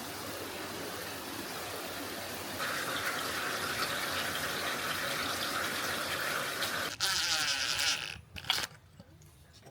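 Steady rushing of water, growing louder and brighter about two and a half seconds in, then changing near seven seconds and fading out almost to nothing near the end.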